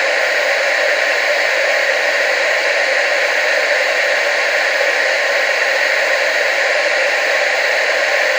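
Steady, unbroken TV static hiss, loud and even, with most of its energy in the upper middle of the range and almost no bass.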